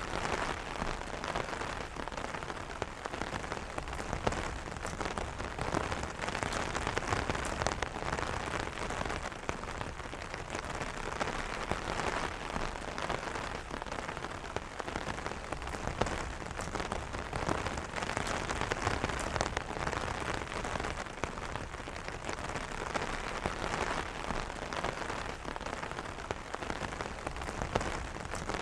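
Steady rain pattering on an umbrella canopy: a dense hiss of drops with many separate small drop taps on the fabric.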